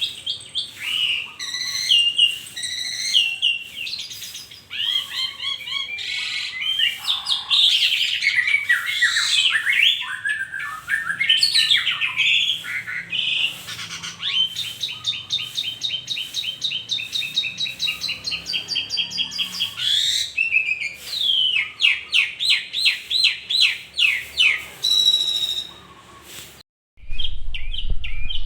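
Asian pied starling singing a long, varied song of whistles, chatter and fast runs of repeated notes, cut off suddenly near the end by a brief silence before it resumes.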